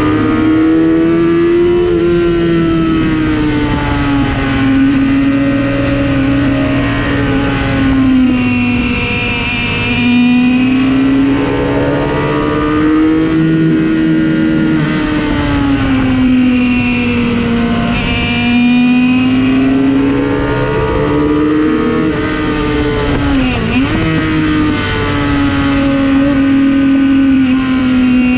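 Sport motorcycle engine running at high revs, recorded onboard, its pitch rising and falling smoothly every few seconds as the rider accelerates and rolls off through the bends, over a steady wind rush. A quick sharp dip and recovery in revs comes about 23 seconds in.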